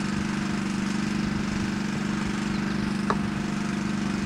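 Steady low mechanical hum, with one short sharp knock about three seconds in.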